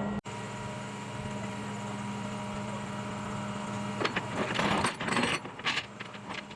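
Tow truck engine idling steadily, with a low even hum. About four seconds in, a run of irregular clattering and rustling noises starts over it and is the loudest sound.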